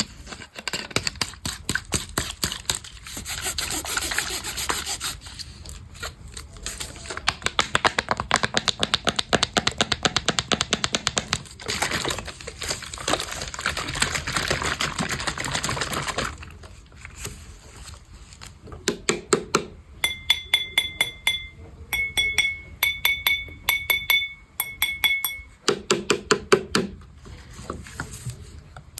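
ASMR trigger sounds: bursts of rapid tapping and clicking alternating with scratchy, rustling noise. From about twenty seconds in, a run of short high-pitched beeps repeats several times.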